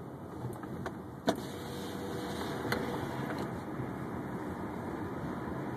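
Steady car road and engine noise heard from inside a moving car, with a sharp click a little over a second in and a fainter click about halfway through.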